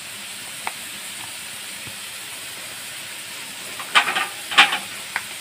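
Cabbage and capsicum sizzling steadily in a hot wok, a light even hiss with a few faint clicks. About four seconds in come two short bursts of clatter, the loudest sounds here.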